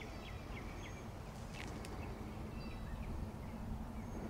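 Small birds chirping faintly a few times over a steady low background hum.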